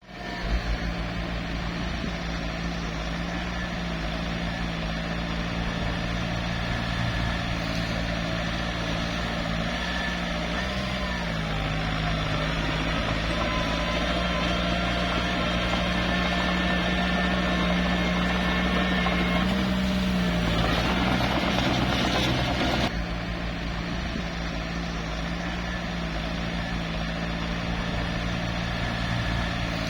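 Small crawler bulldozer's diesel engine running steadily under work. Its pitch dips briefly about eleven seconds in, and about twenty seconds in a harsher rattling hiss joins for a few seconds, then cuts off suddenly.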